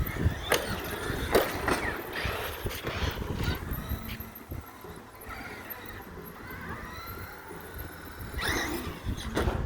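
Radio-controlled car motors whining, rising and falling in pitch, with several sharp knocks.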